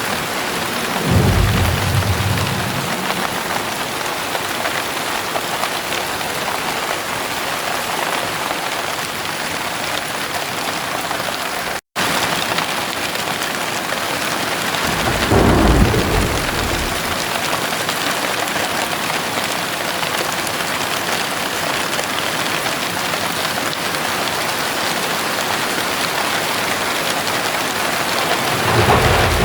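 Heavy rain pouring steadily, with three low rumbles of thunder: about a second in, about halfway through, and one building at the very end. The sound cuts out for an instant a little before halfway.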